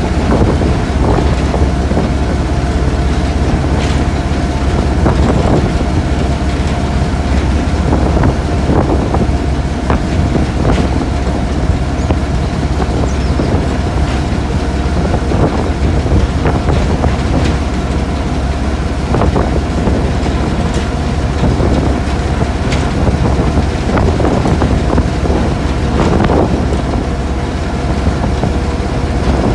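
Train hauled by a Class 08 diesel shunter, running along the track: a steady low rumble with a faint steady hum. Over it come irregular clicks and knocks, typical of wheels passing over rail joints.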